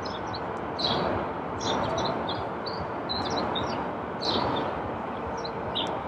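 Many small birds chirping in short, high notes over a steady background rush of noise.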